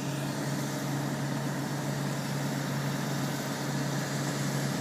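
A crane's engine running at a steady speed, a constant low hum with an even noisy wash above it, while the lifted sailboat hangs in its slings.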